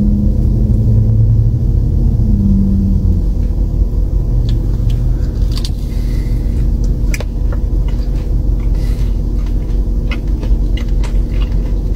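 Car engine idling, heard from inside the cabin as a steady low rumble and hum. From about four seconds in come small crunches and clicks of chewing a breaded fried chicken tender.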